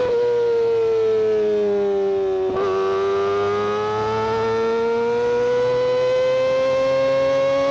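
Kawasaki Ninja ZX-25R 249 cc inline-four screaming at very high revs through its exhaust. The pitch sags for about two and a half seconds, breaks briefly, then climbs steadily as the bike pulls through the rev range.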